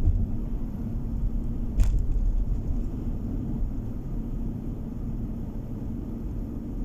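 Car driving on a road, heard from inside the cabin: a steady low rumble of tyres and engine with a faint hum, and one sharp knock about two seconds in.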